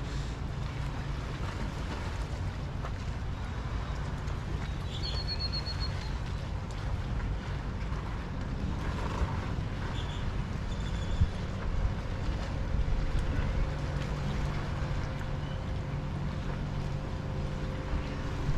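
Harbor and beach ambience: a steady wash of water and wind with a low rumble, and a few brief high bird chirps about five and ten seconds in.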